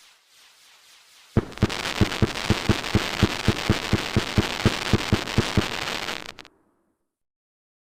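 Fireworks going off: a sudden burst about a second and a half in, then dense crackling with an even run of sharp pops, about four or five a second, that cuts off suddenly near the end.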